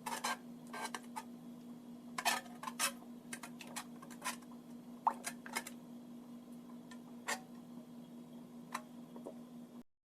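Irregular clinks and taps of kitchen utensils against dishes over a steady low hum. The sound cuts off abruptly near the end.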